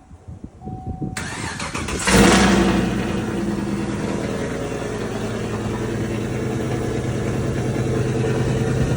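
Cammed GMC Sierra pickup's engine cold-started: the starter cranks for about a second, the engine catches with a loud flare of revs, then settles into a steady idle.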